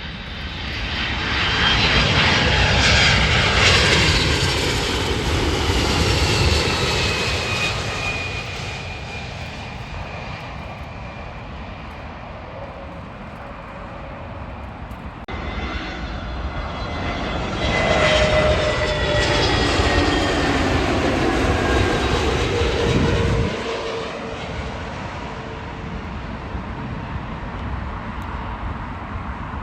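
Two jet airliners passing one after the other, each a loud swell of engine noise with whining tones that fall in pitch as it goes by. The second drops away abruptly, leaving a lower steady noise.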